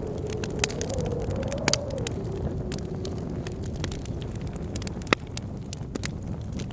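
Wood fire crackling with frequent sharp pops, the sharpest about five seconds in, over a low rumble, while blizzard wind howls in a wavering tone that rises and falls.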